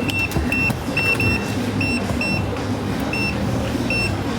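Short electronic beeps, all at the same high pitch, about eight of them at irregular intervals over a steady low background rumble.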